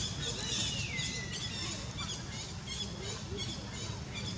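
Birds chirping in short, high, repeated calls, with one longer call falling in pitch about half a second in, over a steady low rumble.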